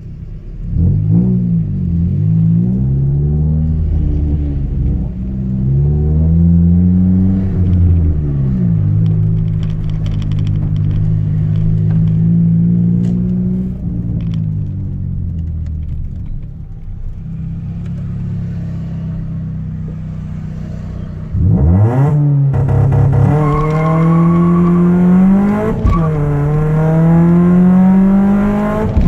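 Chevrolet Celta 1.0 four-cylinder engine, naturally aspirated with a 4-into-1 header and an open two-inch exhaust with no mufflers, running on ethanol, accelerating through the gears. The revs climb and drop back at each shift several times, settle into a steadier, quieter pull in the middle, then rise sharply about 22 seconds in and climb again through two more shifts.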